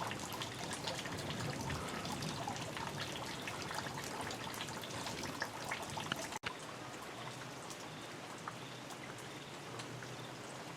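Light rain falling, with many separate drops and drips ticking. The sound cuts out for an instant about six seconds in and is a little quieter after.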